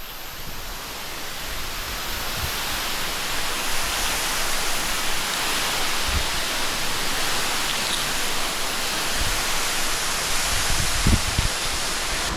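Steady roar of an underground waterfall, swelling over the first two seconds and then holding, with a few short low knocks.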